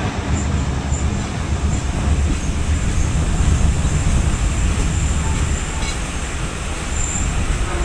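Passenger train heard from on board: a steady low rumble and drone of the train running.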